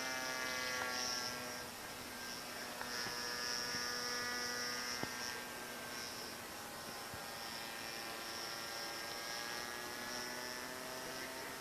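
The 20cc gas engine of a radio-controlled Yak 54 model plane droning in flight. Its pitch slowly sinks and then climbs again as the plane moves about. The uploader says the engine was set a little rich on this flight.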